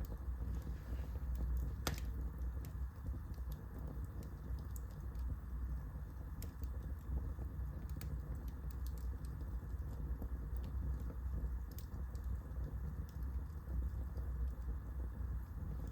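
Wood fire burning, a steady low rumble with irregular crackles and pops, one sharper pop about two seconds in.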